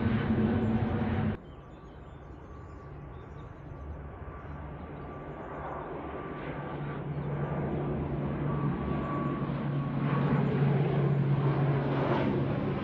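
Departing airliner's engines running loud, cut off abruptly about a second and a half in. Another aircraft's engine noise follows, starting quieter with a steady low hum and growing steadily louder.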